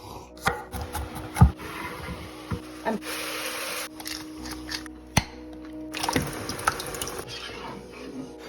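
Kitchen sounds while pasta is cooked: a series of sharp knocks and clatter of pots or utensils, the loudest about a second and a half in, with two short spells of running water.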